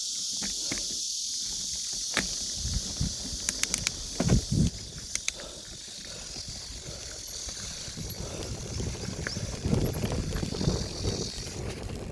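Bicycle ridden over a forest trail: tyres rumbling unevenly over the ground, with sharp clicks and rattles from the bike, under a steady high hiss that fades near the end.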